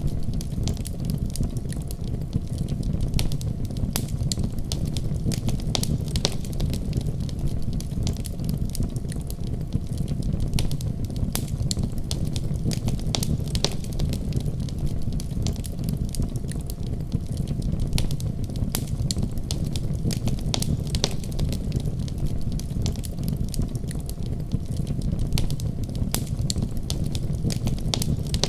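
Wood fire burning in a fireplace, crackling with frequent irregular pops and snaps over a steady low rumble of the flames.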